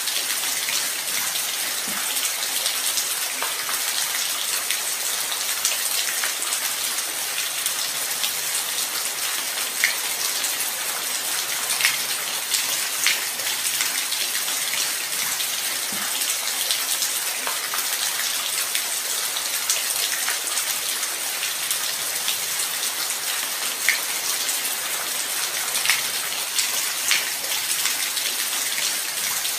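Light rain falling steadily, a constant hiss with many separate drops ticking on a surface.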